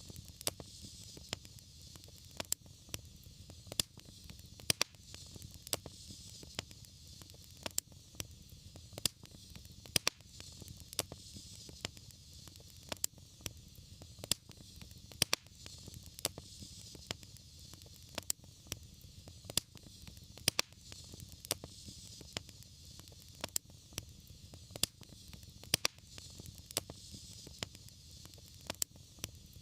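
Wood fire crackling, with frequent irregular sharp pops over a low steady rumble and a soft hiss.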